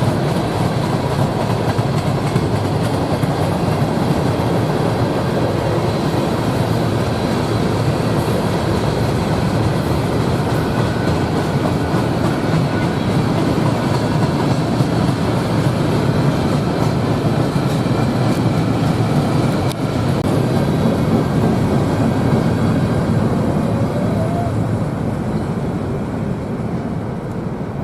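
A train rolling past close by, its cars going by in a steady, continuous rumble that eases a little near the end.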